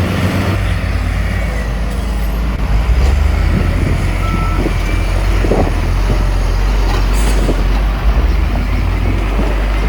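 Heavy diesel earthmoving machinery running with a steady low drone, getting heavier about half a second in.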